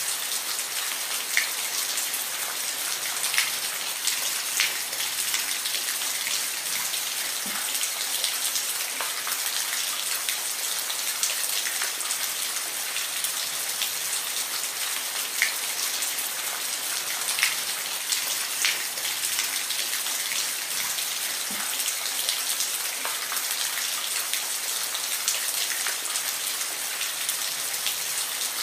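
Steady rain falling, a dense even hiss with individual drops ticking sharply on a hard surface every second or two.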